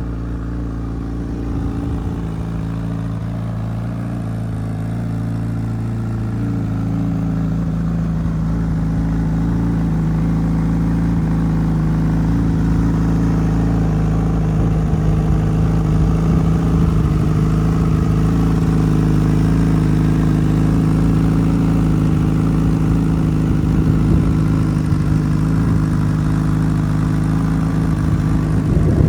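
Honda CBR1000RR Fireblade's inline-four engine idling through a Racefit aftermarket exhaust, a steady note that rises slightly in pitch and level about seven seconds in, then holds.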